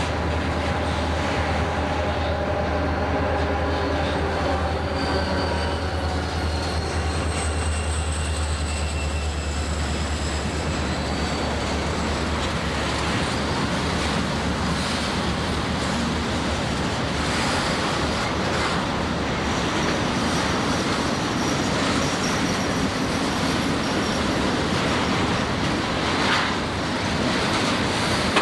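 A train passes close by. A deep, steady locomotive engine hum lasts about the first ten seconds, then the cars roll past with continuous steel-wheel noise and thin, high wheel-squeal tones.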